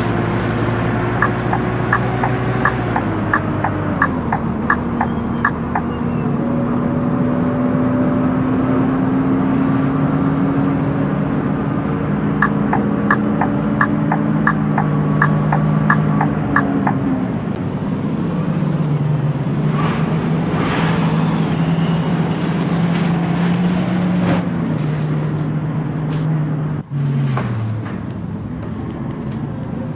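Scania K230UB single-deck bus's engine running, heard from on board, its note dropping in steps a few times. Two runs of regular sharp clicking, about two or three a second, last a few seconds each.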